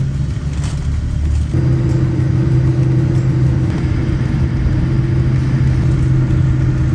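Steady drone of an airliner cabin, a Boeing 787-8 Dreamliner with its engines running while it waits on the ground for takeoff. About a second and a half in, the low hum grows louder and a second steady tone joins it above.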